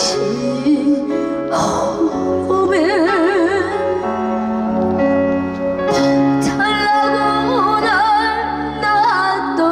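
A live singer holding long notes with a wide vibrato over instrumental backing music.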